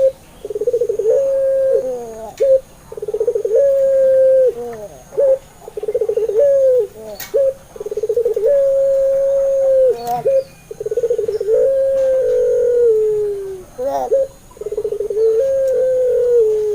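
Puter pelung (ringed turtle dove) cooing over and over: each coo starts with a rolling, trilled note and runs into a long held note, some sliding down at the end, with short pauses between calls.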